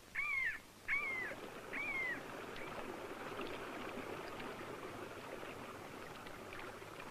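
A bird calls three times in the first two seconds, each a short rising-and-falling cry, over a steady rush of water.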